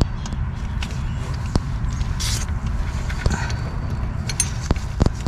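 Scattered light metallic clicks and clinks of parts and tools being handled, with one short hiss about two seconds in, over a steady low rumble.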